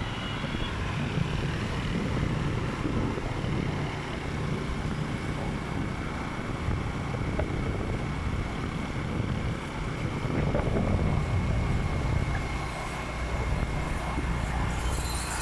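Motorcycle running steadily on the road, its engine rumbling under wind rushing over the microphone.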